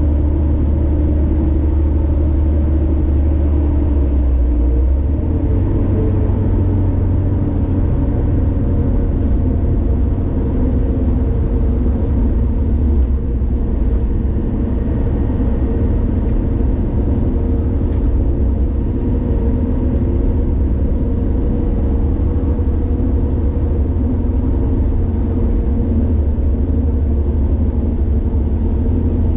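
Car driving at road speed on a highway: a steady engine and tyre rumble, with the engine note shifting slightly about five seconds in.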